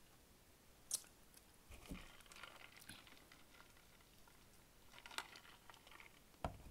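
Faint chewing and mouth sounds of a person eating, close to the microphone, with a few sharp little clicks about a second in and again about five seconds in.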